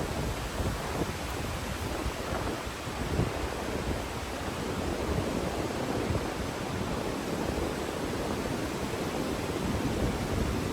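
Steady rushing of a mountain stream flowing through a canyon, an even, unbroken roar of water.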